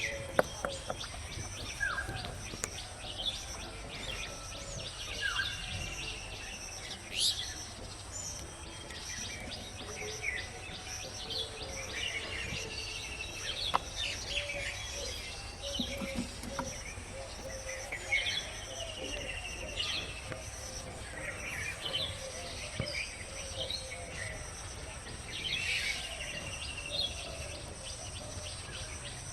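Several birds chirping and whistling in short calls, one after another, over a steady low rumble of outdoor background noise.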